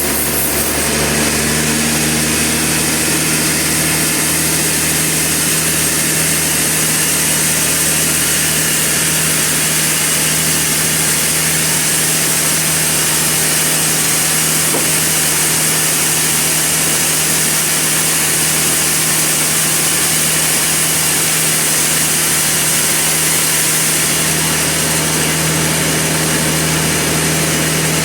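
Sawmill running steadily, its saw cutting through a large Trembesi (rain tree) log: a constant machine hum under a dense hiss of the cut, the hiss easing a little near the end.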